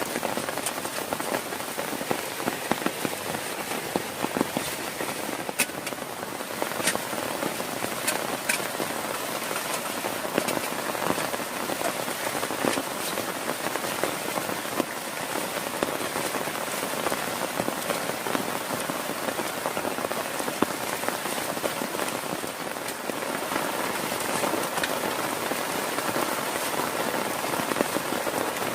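Heavy rain falling steadily, a dense hiss broken by scattered sharper drop hits.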